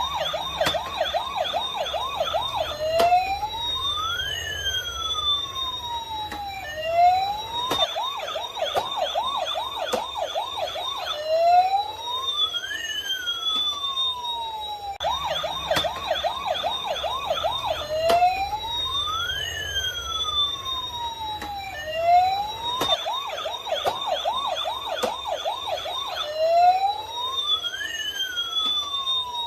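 Toy ambulance's electronic siren running in a repeating cycle: about three seconds of fast warbling yelp, then slow rising and falling wails, the whole pattern coming round about every seven and a half seconds.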